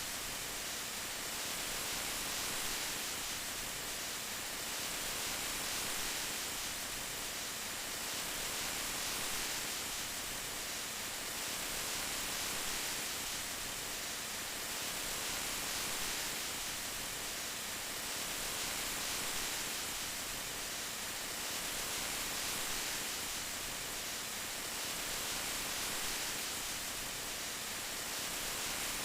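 Steady rain, an even hiss that swells slightly about every three seconds.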